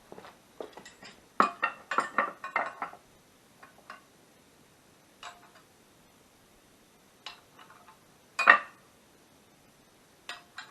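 Metal tools and suspension parts clinking and knocking during work on a car's front strut. There is a quick run of clinks in the first few seconds, then scattered single knocks, with the loudest about eight and a half seconds in.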